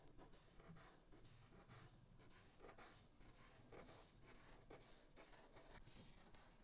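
Faint scratching of alcohol marker tips rubbing across paper in short, repeated coloring strokes.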